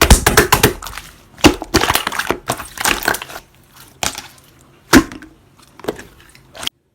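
Yellow mango jelly slime being squeezed and pressed, making wet crackling and popping squishes in bursts with short pauses between them, several ending in a sharp pop; it stops abruptly near the end.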